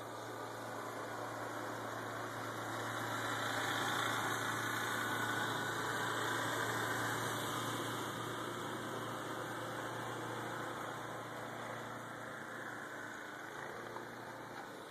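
A vehicle going by, its engine and tyres swelling over the first few seconds and then slowly fading away.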